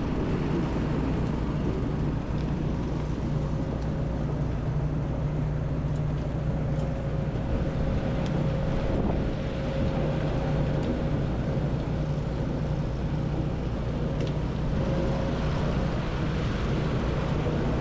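Tractor diesel engine running steadily, a constant low drone with a faint steady whine above it.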